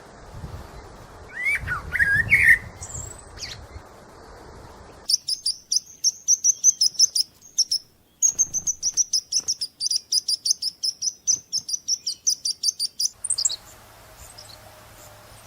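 A small songbird singing: a few short rising whistled notes, then a fast run of high, repeated chirps, about five a second, with a brief break partway through, stopping near the end.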